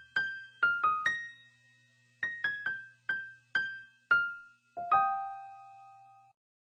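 Music: a keyboard plays a light melody of single struck notes, pausing briefly about two seconds in, then ending on a held chord that cuts off sharply near the end.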